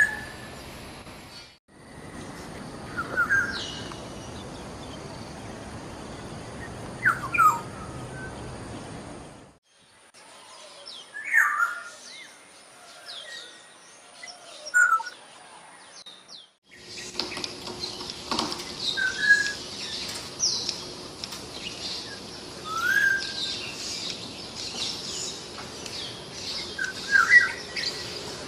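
Small birds chirping in short, separate calls, across several recordings joined by abrupt cuts; in the last part many birds chatter together.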